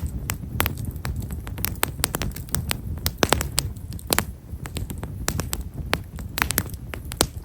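Fire of himeshara (Japanese stewartia) firewood crackling with many small, quick pops, some louder than others, over a low steady rumble.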